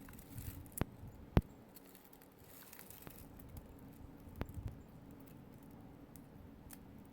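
Scattered clicks and light rustling of handling noise, with a sharp click about a second and a half in, over a faint steady low hum.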